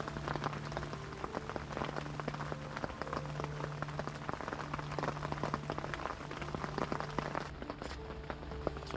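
Heavy rain falling, a dense patter of drops.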